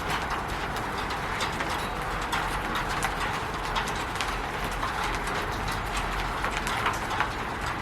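Rain falling on a roof: a steady hiss with many irregular sharp drops and taps.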